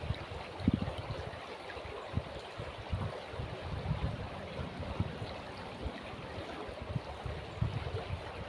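River water flowing with a steady rushing, broken by irregular low rumbles.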